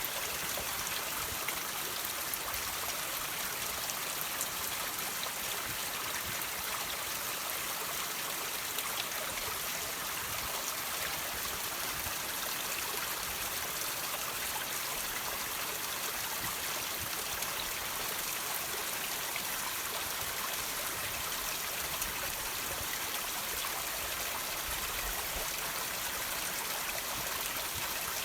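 Water trickling and dripping off rocks: a steady, even splashing hiss with faint scattered drips.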